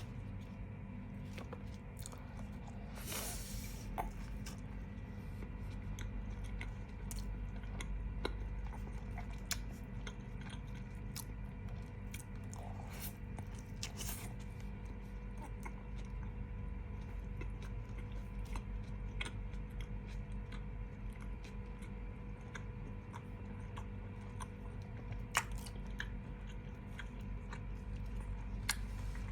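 A person chewing and biting food close to the microphone, with scattered sharp crunches and a couple of brief louder crunches. A steady low hum runs underneath.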